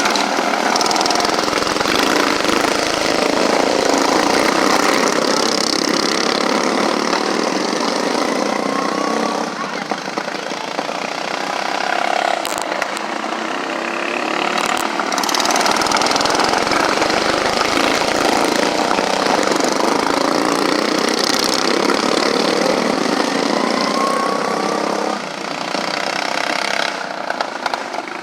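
Engines running steadily, with indistinct voices in the background.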